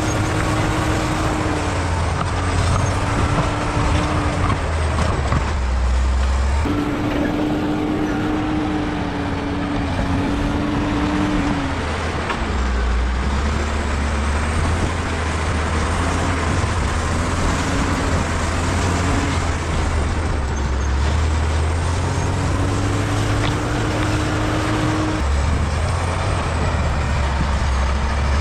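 Bulldozer's diesel engine running steadily with a heavy low drone, its pitch shifting up and down several times.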